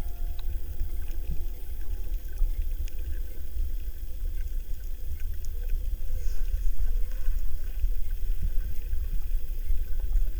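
Underwater ambience on a reef: a steady low rumble of water with faint scattered ticks and clicks.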